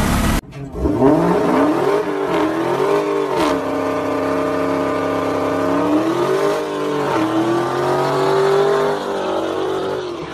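A muscle car's engine revving up and down during a tyre-smoking burnout, its pitch rising and falling several times. It cuts in abruptly after a brief burst of motorcycle exhaust.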